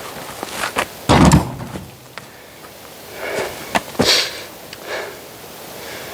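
Heavy blows of a splitting tool on oak firewood: a deep wooden thud about a second in, a sharp strike and another thud near four seconds, with lighter knocks of wood in between.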